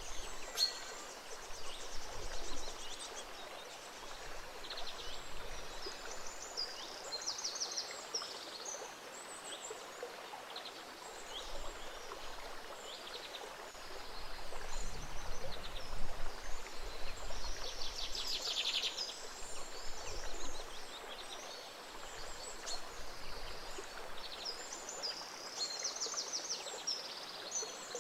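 A small stream flowing steadily, with several birds singing and chirping over it in short, repeated trills and calls.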